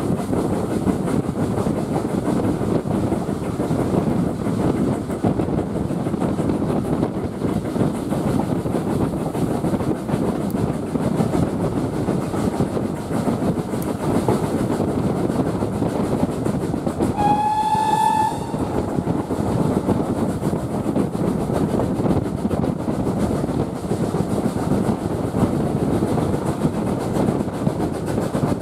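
Steam train running steadily with a continuous rumble and rail clatter. About two-thirds of the way through, the locomotive's steam whistle gives one short blast.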